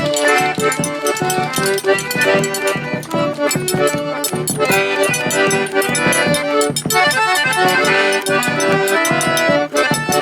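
Accordion playing an instrumental forró pé-de-serra passage, with percussion keeping a steady beat.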